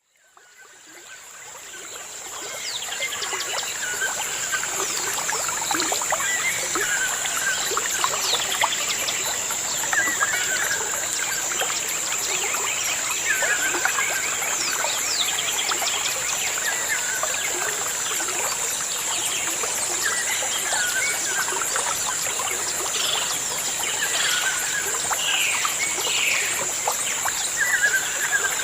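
Birds chirping, with one short call repeated about every second and a half among many scattered chirps, over a steady high-pitched whine. The sound fades in over the first couple of seconds.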